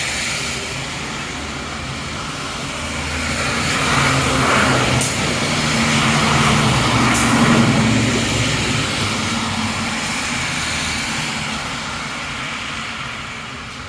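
Traffic passing on the street, led by a heavy vehicle. Its engine hum and tyre hiss swell to a peak in the middle and then fade away.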